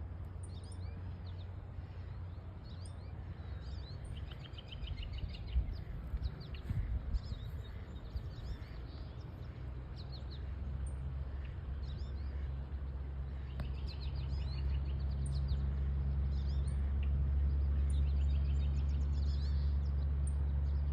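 Small birds chirping and trilling over and over, over a steady low rumble that gets louder in the second half, with a few soft thumps early on.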